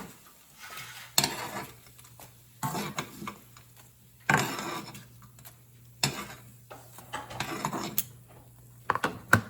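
Metal kitchen utensil clinking and scraping against a pot and plate while fried flatbread strips are lifted out of hot oil onto paper towels: several sharp knocks a second or two apart, each with a short scrape after it.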